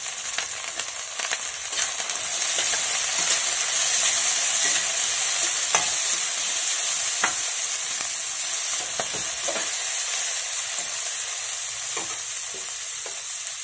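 Chopped vegetables and peas sizzling in hot oil in a metal kadai, a steady hiss with the occasional sharp scrape and clack of a stirring utensil against the pan as they are stirred.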